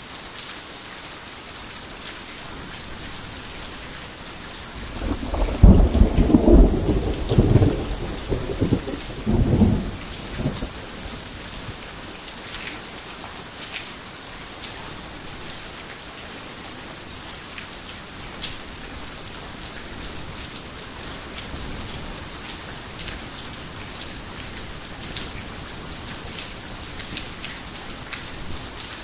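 Heavy rain falling steadily. About five seconds in, a loud rumble of thunder rolls for some five seconds, swelling twice before it dies away.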